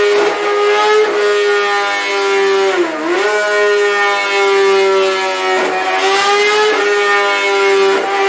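Kawasaki ZX-6R inline-four engine, breathing through an M4 full exhaust, running at high revs held nearly steady. The pitch sags and recovers briefly about three seconds in and wavers again near the end.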